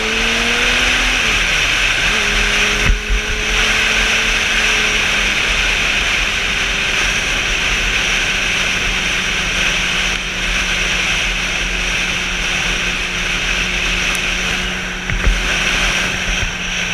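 Motorcycle engine running at road speed under heavy wind rush. Its pitch rises at first, drops and climbs back about a second and a half in, then holds steady, with a couple of brief knocks along the way.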